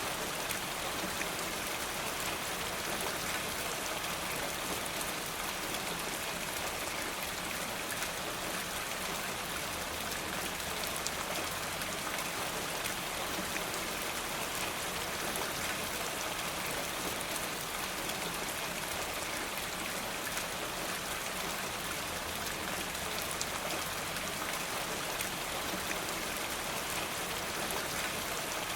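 Steady rain, an even hiss with many small drop taps scattered through it.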